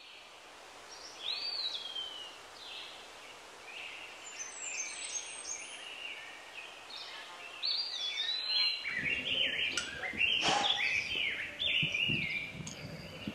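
Birdsong: many short chirps and whistled notes that rise and fall, overlapping one another. About two-thirds of the way in, a large hall's background noise joins underneath, with the birds continuing over it.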